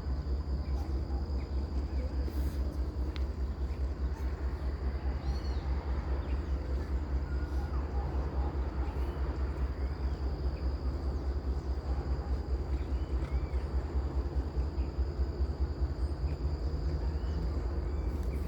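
Outdoor nature ambience: a steady low rumble under a continuous high-pitched insect drone, with faint scattered bird chirps.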